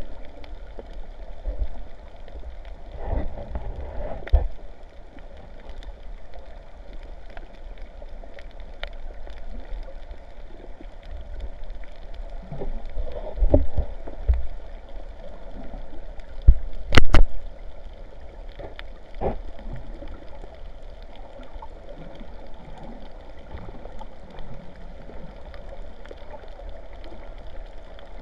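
Sea water sloshing and gurgling close to the microphone, over a steady low rumble, with a few knocks; the loudest is a sharp double knock a little past the middle.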